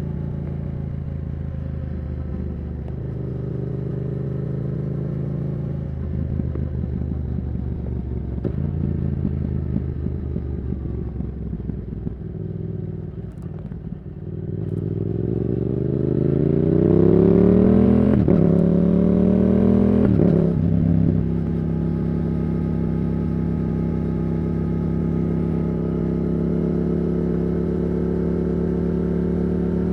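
Yamaha R7's 689 cc CP2 parallel-twin engine through a Yoshimura R77 exhaust, holding a steady note. About halfway through it accelerates hard, the revs climbing, with two quick upshifts that briefly break the note. It then settles back to a steady cruise.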